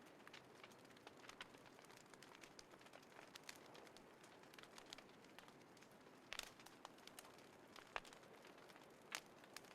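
Small wood fire in a compact folding fire pit, crackling softly with irregular sharp pops, a few louder ones about six, eight and nine seconds in.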